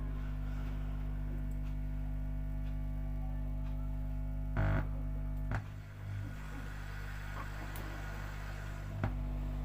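Home-built 3773 audio amplifier putting a steady mains hum through its speaker, a buzz at the mains frequency and its multiples, with a few short clicks around the middle and near the end. The hum is the sign of the amplifier not being earthed.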